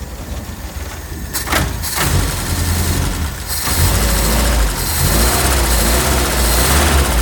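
A 1968 Triumph Herald's four-cylinder engine being started: a couple of clicks, then the engine catches about two seconds in and runs, getting louder from about four seconds in as it is revved.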